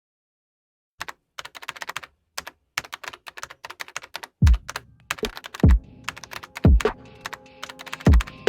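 Rapid clicking of computer keyboard typing after a moment of silence; from about halfway through, a music beat with a deep kick drum and sustained tones comes in under the continuing typing.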